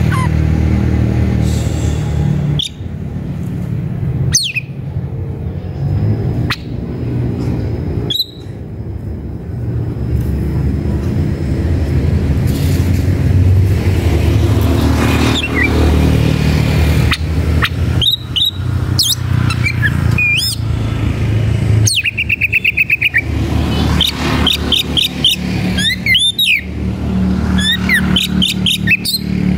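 Oriental magpie-robin (kacer) singing: scattered whistles and sharp notes at first, then a dense run of chattering, varied phrases with a fast rattling trill past the middle, the loud, aggressive song of a male looking for a rival. A steady low rumble runs beneath it.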